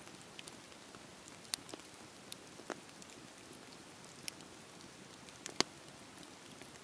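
Wood fire crackling: a faint, steady hiss with scattered sharp pops and snaps, the loudest about five and a half seconds in.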